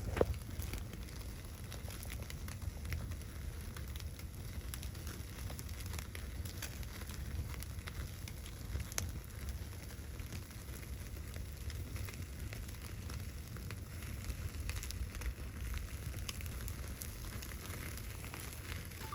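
Wood fire crackling, with frequent sharp pops and snaps over a steady low rumble; it starts and cuts off abruptly.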